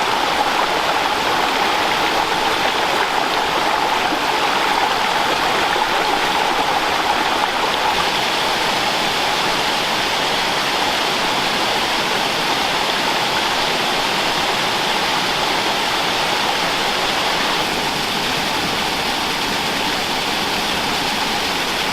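Steady rush of water from a tall waterfall and the river cascading below it, a dense, even sound with no breaks, easing slightly after about eight seconds.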